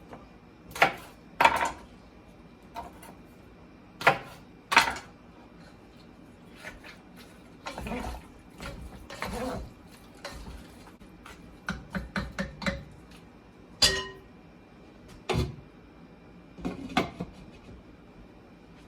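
A spoon stirring seasoned turkey wings in a pot, knocking against the pot at irregular intervals, with a quick run of small clinks about twelve seconds in and softer scraping sounds between the knocks.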